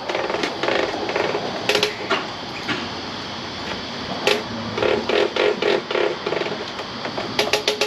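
Tyre air pump inflating a motorcycle tyre: a mechanical clatter with scattered clicks, and a quicker run of pulses at three to four a second about five seconds in.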